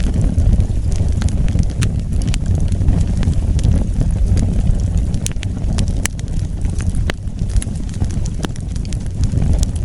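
Wood fire crackling, with irregular sharp pops over a steady low rumble from the burning.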